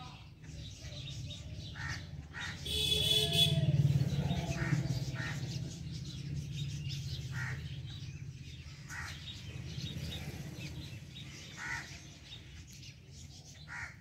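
Birds calling outdoors: short, sharp calls repeat every second or two over a steady low hum. A louder, rustling burst comes about three seconds in.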